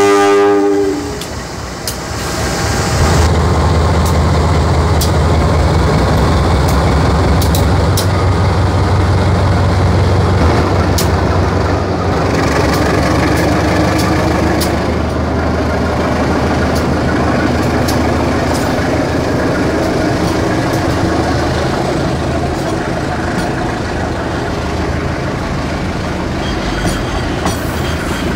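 A diesel locomotive's horn sounds briefly and cuts off about a second in. Then the locomotive's engine drones loudly as it passes close by, followed by passenger coaches rolling past with a steady rumble and scattered wheel clicks.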